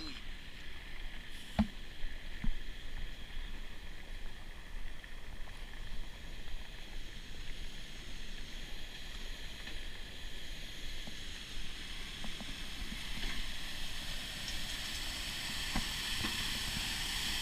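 Whitewater River in flash flood: muddy floodwater rushing, a steady hiss-like roar, with wind rumbling on the microphone. Two short knocks come about two seconds in.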